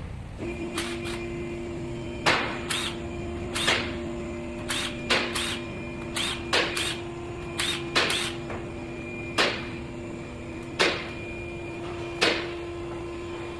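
Sharp metallic knocks and clacks, often in quick pairs, about one every second, over a steady machine hum that starts about half a second in.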